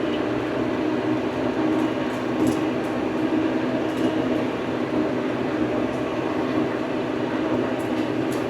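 Old farm tractor's engine running steadily.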